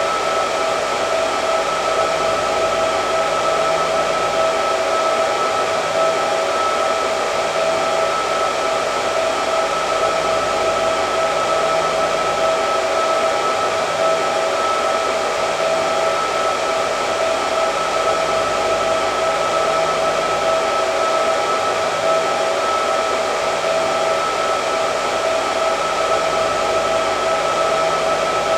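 Hair dryer running continuously: a steady rush of air with a constant whine, with no change in speed.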